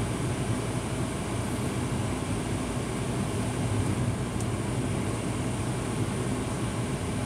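Steady engine and road noise inside a moving truck's cab.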